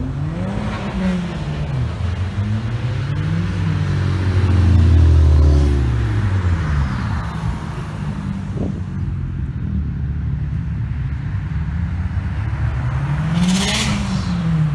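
Car engines driving off, their revs rising and falling over and over, with one car running loudest about five seconds in. A short hiss sounds near the end.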